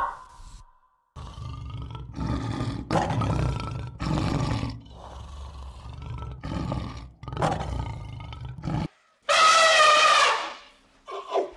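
A big cat roaring and growling in a run of rough, deep calls, followed near the end by a loud, higher call with a clear pitch.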